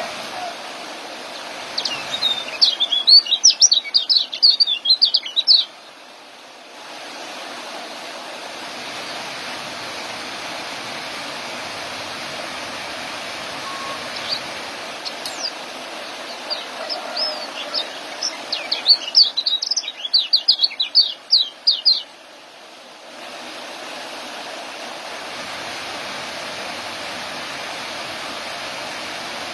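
Young kecial (iora) singing its rapid chattering 'ngeriwik' song: two bouts of quick, high chirps, each lasting about three seconds, over a steady hiss.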